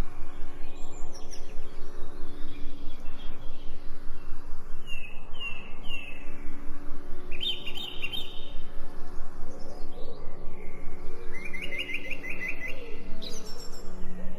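Songbirds chirping and trilling: a few short falling chirps, a brief trill about halfway, then a quick run of chirps near the end. Under them runs a steady low humming drone that pulses rapidly in loudness.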